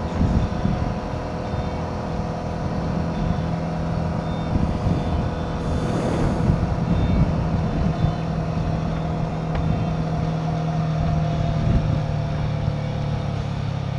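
Royal Enfield Himalayan 450's single-cylinder engine running steadily under way, its note easing slightly lower in pitch in the second half.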